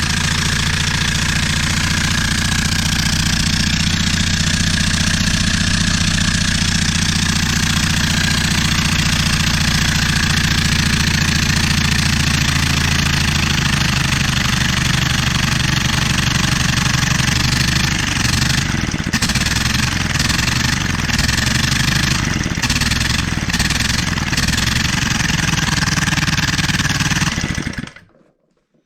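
Old small engine converted to run on compressed air at about 100 psi, running fast and steady through its 5-to-1 gear reduction box: really screaming. The sound cuts off suddenly near the end.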